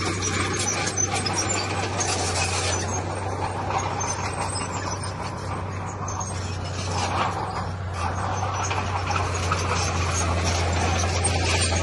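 Heavy diesel machinery running steadily with a low engine drone, with rough scraping and rattling noise over it.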